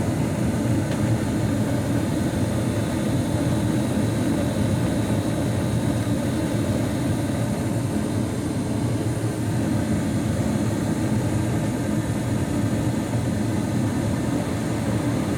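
2021 Carrier gas furnace running with its burners lit and the draft inducer fan on: a steady rush and hum. This is the heating stage of the startup sequence before the circulating blower comes on.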